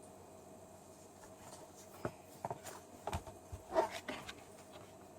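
A few faint scattered clicks and soft taps over a faint steady hum.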